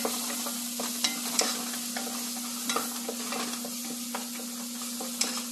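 Minced aromatics and red chilli flakes sizzling as they fry in a nonstick saucepan, stirred with a wooden spatula that scrapes and taps against the pan many times. A steady hum sits underneath.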